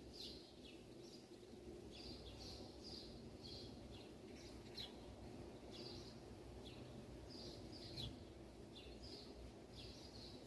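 Faint small-bird chirping, short chirps repeating a couple of times a second over a low background hum, with one soft knock about eight seconds in.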